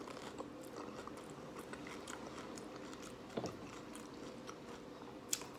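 A person chewing a mouthful of crunchy hard-shell taco: quiet chewing and small crunches, with a couple of sharper clicks, one about three and a half seconds in and one near the end.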